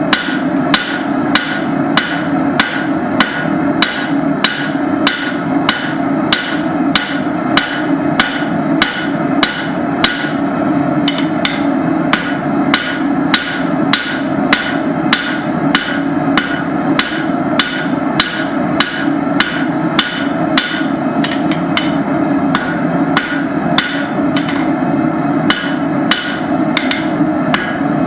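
Blacksmith's hand hammer striking hot steel on an anvil while forging: a steady run of ringing blows, about two a second, over a constant rushing noise.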